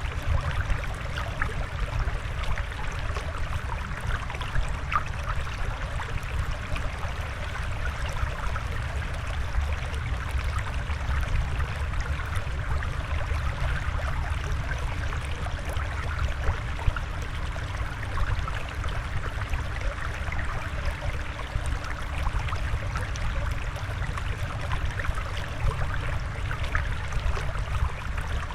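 Steady flowing water, an even rush with a low rumble and many small ticks and splashes through it.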